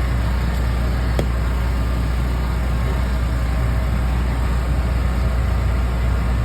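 Steady low hum of a running engine, level and unbroken, with one brief click about a second in.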